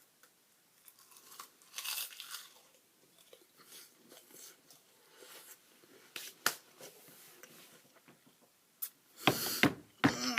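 Crisp roasted seaweed snack sheets being chewed and torn, with soft scattered crackles and crunches and a sharp click about six and a half seconds in. A louder noisy burst comes about nine seconds in.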